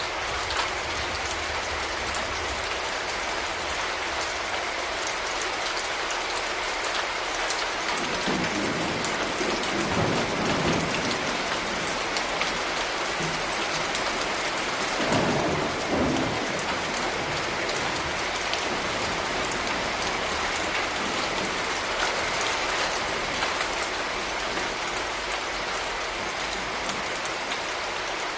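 Steady rain falling on hard surfaces as a dense, even hiss. Low rumbles swell up under it twice, about eight and fifteen seconds in.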